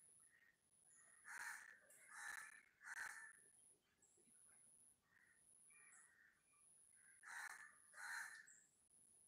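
A bird calling: three loud calls in quick succession about a second in, then two more near the end.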